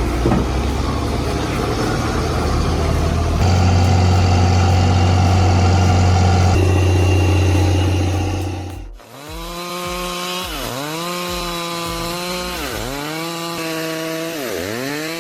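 A heavy truck engine runs loudly, getting louder about three and a half seconds in. After an abrupt cut about nine seconds in, a Stihl MS 382 chainsaw cuts a log, its engine pitch dipping and climbing back about every two seconds.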